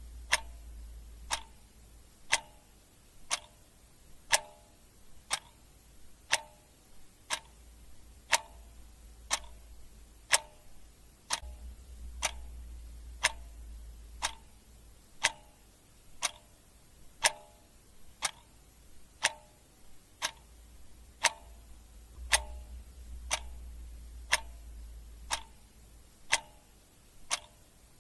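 Clock ticking steadily, about one tick a second, the ticks alternating slightly louder and softer. A faint low rumble swells and fades under it a few times.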